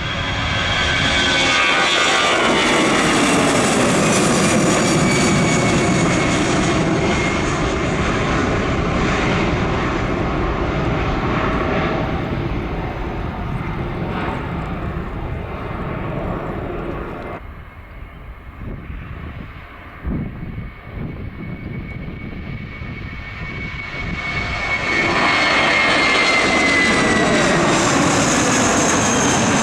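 Jet airliner passing close by, engines running with a high whine that falls in pitch as it goes past, then fading out a little over halfway through. A second jet comes in loud near the end, its whine again falling as it passes.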